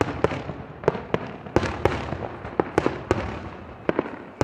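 Fireworks bursting in quick irregular succession, about two sharp bangs a second, each trailing off in a short echo.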